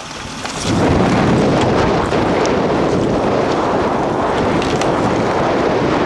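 Nissan Xterra engine at full throttle, a loud steady rumble that comes in sharply about a second in, as the SUV climbs over boulders under heavy load. Wind buffets the microphone.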